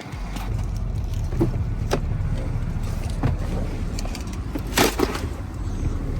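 Pickup truck running, a steady low engine and road rumble, with scattered clicks and a sharp knock about five seconds in.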